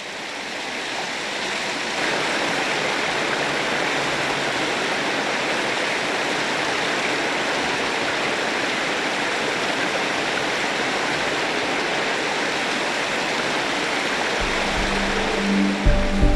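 Mountain stream rushing steadily over rocks, fading in over the first couple of seconds. Music comes in near the end.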